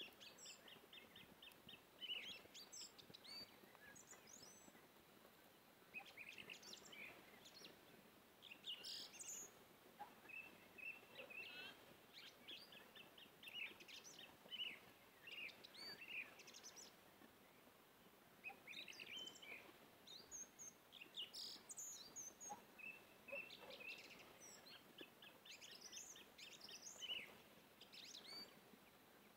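Faint birdsong: small birds giving many short chirps and quick trills, over a low hiss.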